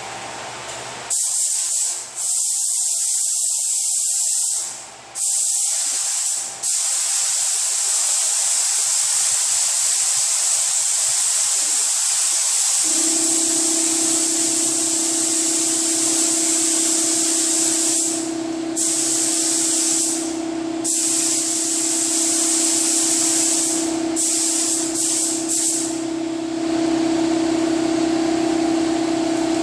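Automotive paint spray gun spraying a coat of sealer: a loud steady hiss of air and atomised paint, broken by several short pauses as the trigger is released between passes. About halfway through, a steady low hum comes in and keeps going.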